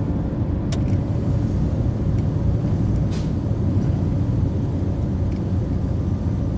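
Steady low rumble of a truck driving on the road, engine and tyre noise, with a brief hiss about three seconds in.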